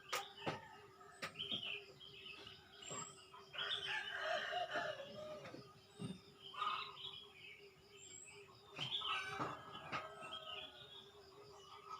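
Morning birdsong: many small birds chirping and calling, with domestic chickens clucking and a rooster crowing, over a faint steady hum.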